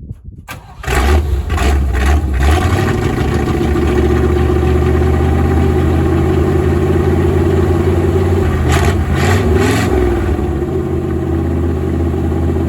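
An engine catches about a second in and runs steadily, with a few brief louder clattering surges near the start and again near the end.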